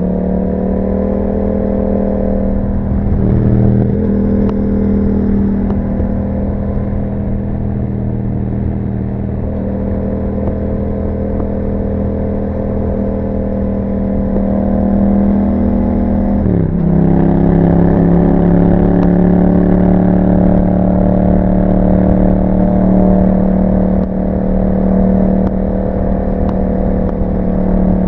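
Yamaha MT-07 parallel-twin engine running through an Akrapovic exhaust while riding, holding a nearly steady pitch. About two-thirds of the way through the pitch drops sharply and settles slightly lower.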